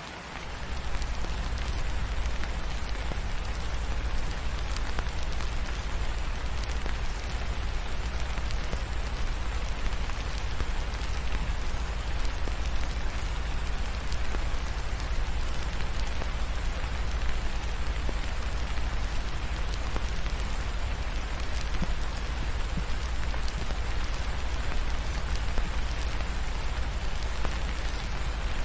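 Steady rain falling, an even hiss with a deep low rumble under it, stepping up in loudness about a second in.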